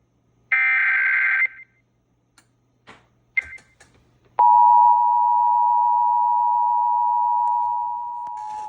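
Emergency Alert System tones over a radio stream. First comes a SAME header data burst, a shrill warbling buzz lasting about a second. A few faint clicks and a short blip follow. About four and a half seconds in, the steady two-tone EAS attention signal starts abruptly and holds, dropping a little in level near the end.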